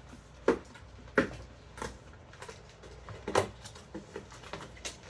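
A string of sharp knocks and clunks from things being handled and set down, the two loudest within the first second and a half and another strong one about three and a half seconds in.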